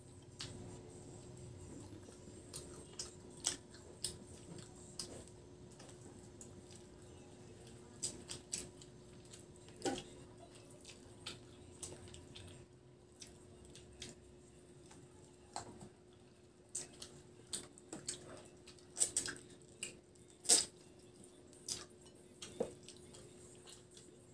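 Close-up eating sounds: wet smacking and clicking of mouths chewing chicken and rice eaten by hand, in scattered irregular clicks, a few much louder near the end. A faint steady hum runs underneath.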